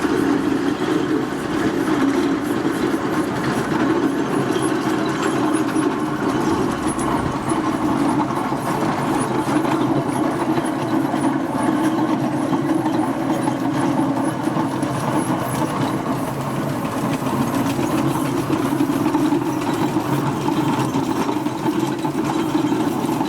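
A steam traction engine travelling along the road, giving a steady, continuous running noise with no clear beat and no break.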